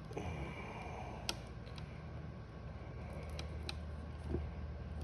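Soldering iron tip working melted plastic into a cracked plastic bumper: light scraping and scattered small clicks over a steady low hum, with one sharper click about a second in.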